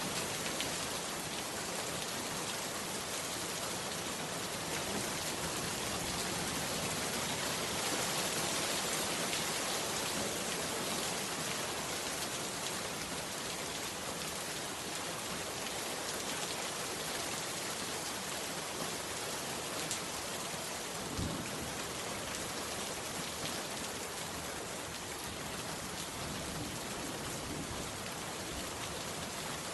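Heavy rain falling steadily, a dense even hiss of drops, with one brief thump about two-thirds of the way through.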